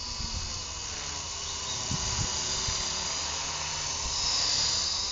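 Electric motor and rotor whine of a GT Model 9018 radio-controlled helicopter in flight, a high whir that swells louder about four seconds in. Wind buffets the microphone underneath.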